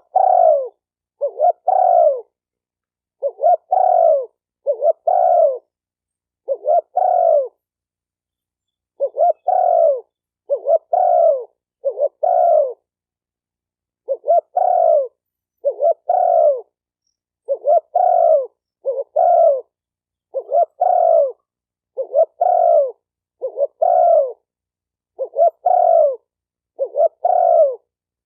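Spotted dove cooing: short, low coo phrases repeated one after another, roughly one every second and a half, with a slightly longer pause about a third of the way through.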